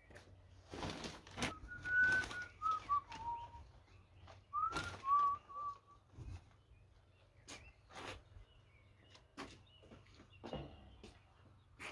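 A person whistling a short tune of a few notes, stepping down in pitch, twice, among rustling and light knocks from handling things at a work bench.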